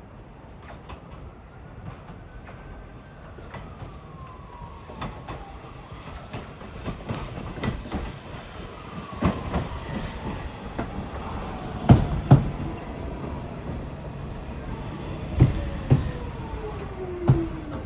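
New York City subway train coming in, growing steadily louder. Its wheels click over rail joints in pairs, and whining tones slide slowly down in pitch.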